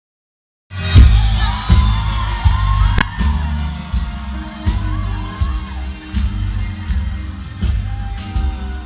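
Live band playing the instrumental intro of a Latin pop ballad, starting after a brief silence: heavy drum and bass beats under a melody line.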